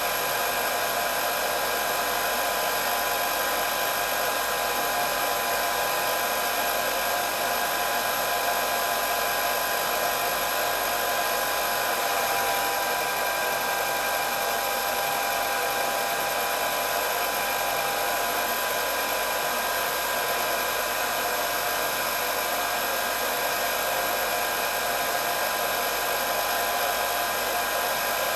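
Electric hair dryer running continuously: a steady rush of blown air with a constant high motor whine, no change in speed.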